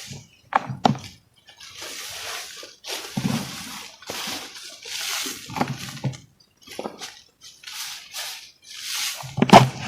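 Crumbly chunks being broken and crushed wet: a run of gritty crunches, each about a second long, with sharp cracks near the start and a loud crack near the end.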